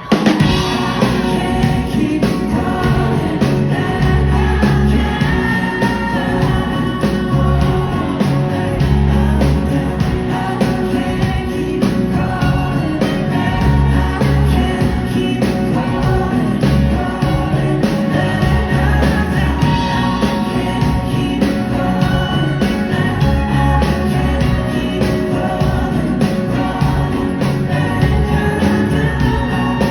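A rock band playing loudly with drums, bass and guitars, with singing but no clear words. The full band comes in all at once at the start.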